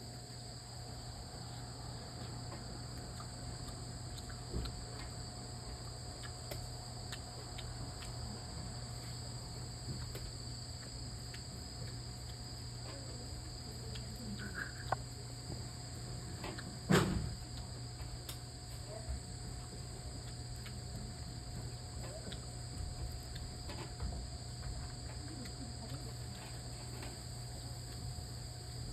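A steady, continuous chorus of crickets, high-pitched, over a steady low hum. There are scattered small clicks, and one sharp knock about 17 seconds in is the loudest sound.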